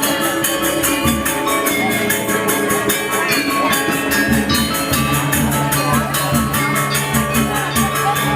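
Balinese gamelan playing: ringing bronze metallophone tones over a fast, even clash of small cymbals and low drum strokes.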